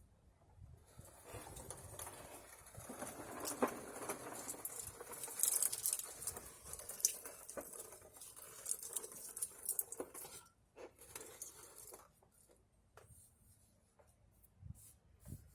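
Pliers working at a coolant-hose clamp under a truck: irregular scraping and rustling with small metallic clicks, busiest for the first ten seconds or so, then only a few scattered clicks.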